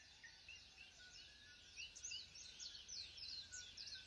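Faint birdsong: several birds chirping in many short, quick notes that overlap and grow busier about halfway through.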